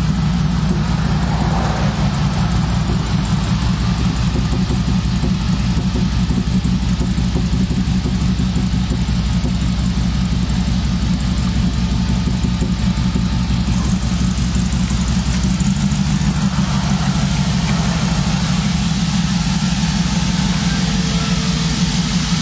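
Chevrolet C10 pickup's engine idling loudly and steadily, its low note shifting a little about fifteen seconds in.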